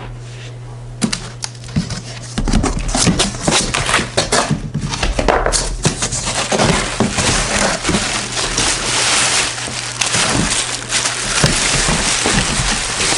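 Cardboard box and packaging of a Kärcher 1700 pressure washer being opened and handled by hand: a busy run of crinkling and scraping with many sharp clicks and knocks, starting about a second in and getting denser from about two seconds. A steady low hum runs underneath.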